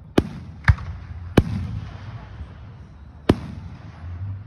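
Aerial firework shells bursting: three sharp bangs within the first second and a half, then a fourth about two seconds later, over a low steady rumble.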